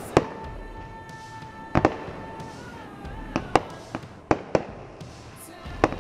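Aerial fireworks bursting: a series of sharp bangs, about seven in six seconds, some in quick pairs, over a steady held tone.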